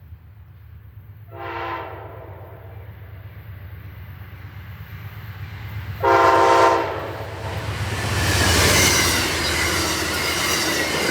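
Amtrak passenger train led by diesel locomotive 85 sounding its multi-note horn twice, a short blast about a second in and a louder one around six seconds in, over a low engine rumble. It then passes close by with a loud rush of wheel and rail noise.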